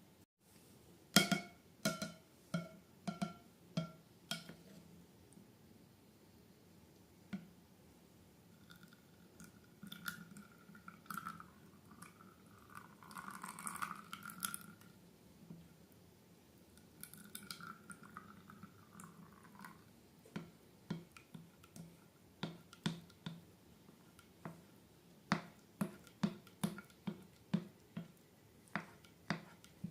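Slime being squeezed and worked by hand: a run of sharp wet clicks and pops, with two longer squelching stretches in the middle.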